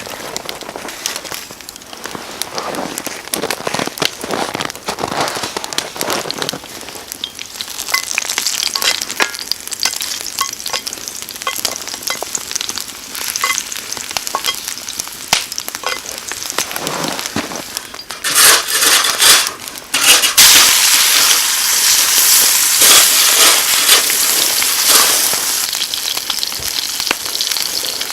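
Steak frying in a pan over a campfire: hot fat sizzling and spitting with sharp pops. About two-thirds of the way through it flares up twice, then becomes a loud, steady sizzle.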